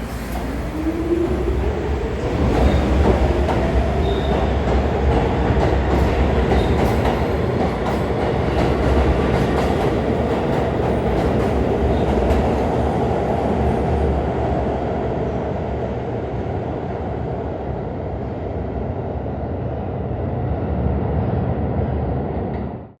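R46 subway train pulling away, its traction motor whine rising in pitch over the first few seconds and then holding steady at speed, with wheels clicking over rail joints.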